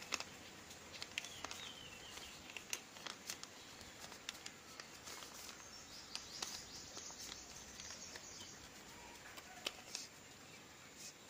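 Faint rustling and crackling of a paper sheet being folded and creased by hand, with scattered small ticks.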